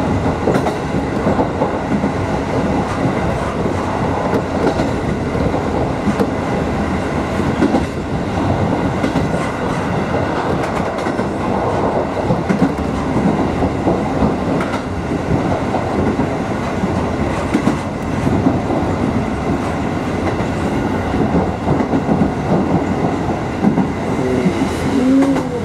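Takamatsu-Kotohira Electric Railroad electric train running along the track, heard from the front of the cab: steady rolling noise with the clatter of wheels over rail joints. A short rising-and-falling whine near the end.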